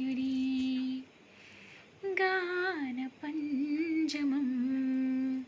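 A woman humming a slow melody without words, in long held notes that glide between pitches, breaking off about a second in and again briefly near three seconds.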